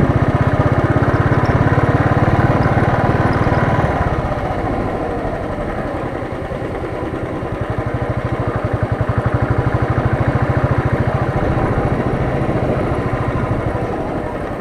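Royal Enfield Thunderbird's single-cylinder engine running with a steady, rapid thumping beat as the motorcycle is ridden, easing off for a few seconds in the middle and then picking up again.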